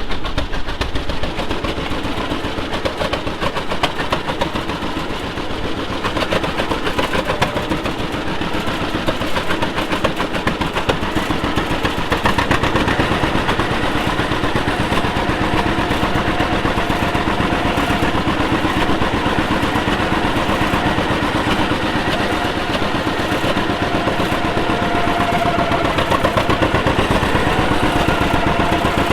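Vintage farm tractor engine running steadily while under way, with a rapid, even exhaust beat; a steady whine joins about halfway through.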